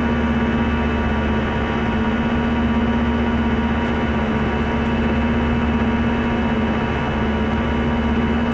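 Airbus A319 cabin noise in flight: a steady engine drone and airflow rush with a constant low hum.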